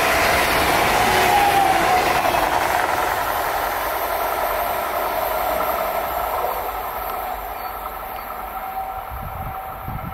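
ODEG Stadler KISS double-deck electric multiple unit passing and drawing away; the rush of its wheels on the rails slowly fades.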